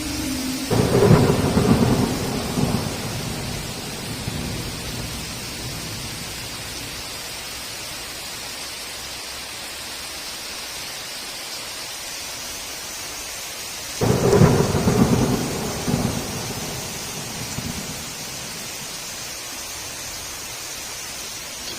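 Steady heavy rain with two sudden cracks of thunder, one about a second in and one about fourteen seconds in, each rumbling on for two to three seconds before fading back into the rain.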